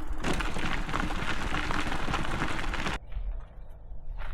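Rushing noise of riding a bicycle: wind on the microphone and tyres rolling, cutting off sharply about three seconds in, leaving a much quieter background.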